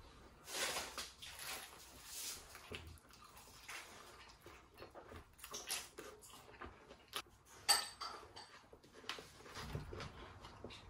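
Close-miked eating sounds of a man biting into and chewing sauce-dipped fried chicken: irregular crunching and wet mouth sounds, with one sharper, louder crunch about three quarters of the way through.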